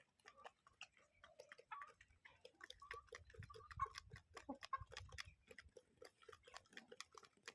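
Chickens pecking and clucking softly: a faint, rapid, irregular run of small clicks mixed with short low calls.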